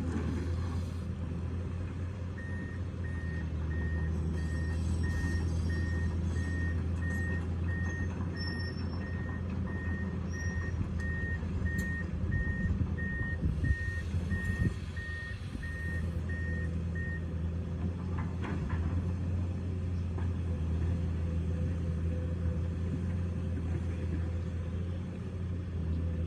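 Excavator's diesel engine running steadily while its travel alarm beeps about one and a half times a second, starting a couple of seconds in and stopping a little past halfway. A few metal knocks come in the middle.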